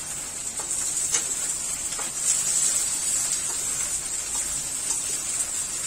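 Cut okra and onion pieces sizzling in hot mustard oil in a kadhai, a steady high hiss, while a slotted spoon stirs them with a few light clicks against the pan.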